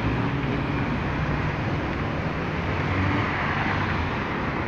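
Heavy city street traffic: a steady mix of car engines running and tyre noise on the road.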